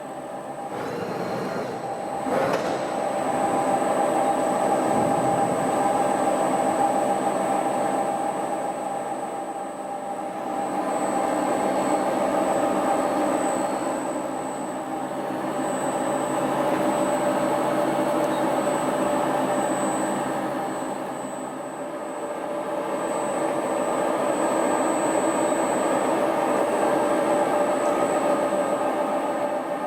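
Lagun G-Cosmos 20 CNC bed mill running: a steady mechanical whine with several pitches, swelling and easing in slow waves about every ten seconds. A short knock comes about two seconds in.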